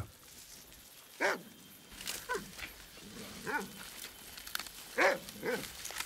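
Kiwi-detection dog giving about five short barks at a kiwi burrow it has found.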